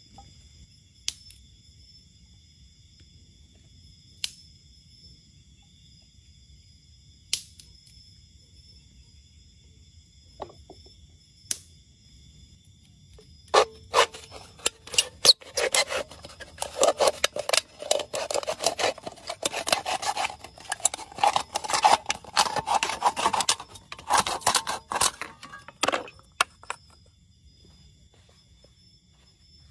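A few separate sharp knocks, then about thirteen seconds of dense scraping and rasping with many clicks, which stops suddenly. Insects keep up a steady high buzz underneath.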